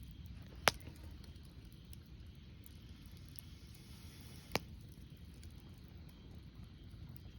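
Wood campfire burning, with two sharp pops about four seconds apart over a low steady background noise.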